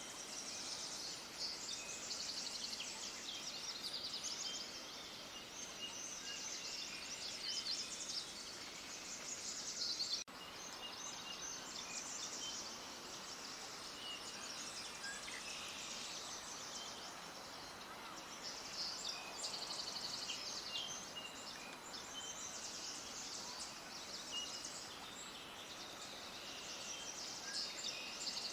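A chorus of many small birds chirping and twittering densely and continuously over a steady hiss of outdoor background noise, with a brief break about ten seconds in.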